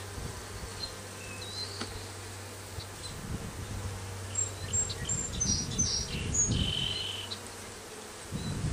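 Honeybees buzzing around an open hive as its frames are inspected, a steady hum with uneven swells. A few short high chirps come through in the middle.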